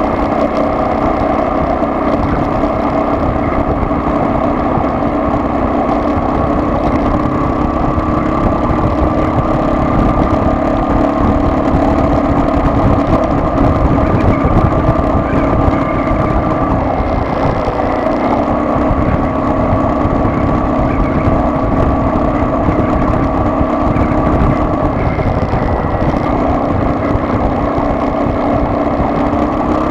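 A car's engine and road noise while driving, steady, with the engine pitch shifting a few times.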